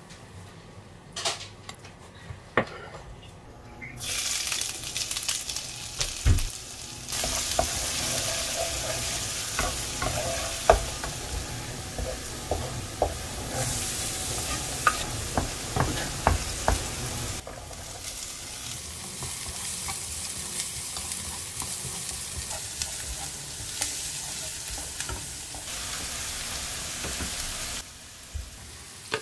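Minced garlic and ginger frying in hot oil in a nonstick pan: a steady sizzle that starts about four seconds in and grows louder a few seconds later. A wooden spatula clicks and scrapes against the pan as it stirs and as chopped onion is scraped in, and the sizzle drops away just before the end.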